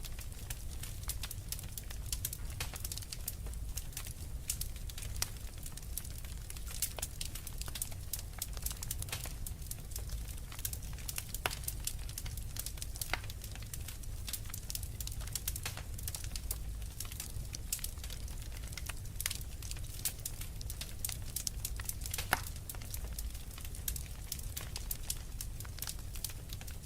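Wood fire crackling in a fireplace: many irregular sharp pops and snaps, over a steady low rumble.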